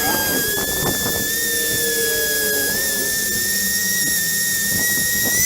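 Dremel rotary tool running at full speed, a steady high-pitched whine that dips slightly now and then. It is switched off at the very end and winds down.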